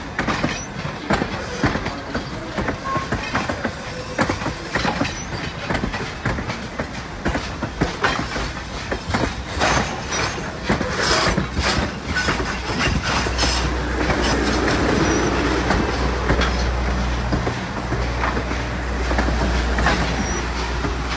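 Steam-hauled heritage passenger coaches rolling past at close range, their wheels clicking irregularly over rail joints. A low steady hum joins in past the middle.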